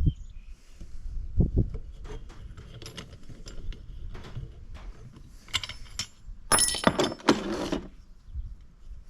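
Metal hand tools and small engine parts clicking and clinking during valve work, with a louder rattling clatter lasting about a second near the end.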